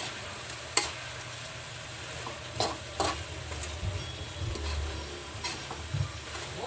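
Shrimp sizzling in sweet chili sauce in a wok as a metal spatula stirs them, scraping and knocking against the pan about half a dozen times. The sauce is reducing and thickening over the heat.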